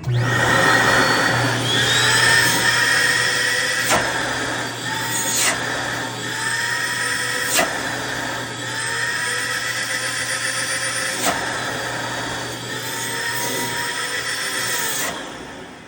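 Mytee Breeze 220 portable carpet extractor's twin vacuum motors switched on at full suction, starting suddenly with a loud, steady whine. The whine's pitch dips and recovers several times, with a few sharp clicks, before the motors wind down near the end.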